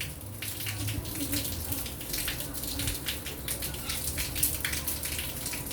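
Rainwater dripping and trickling, with an irregular patter of drops over a low steady hum.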